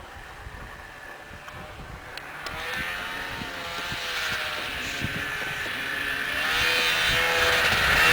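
Snowmobile engine, faint at first, growing steadily louder from about two and a half seconds in, its pitch wavering up and down.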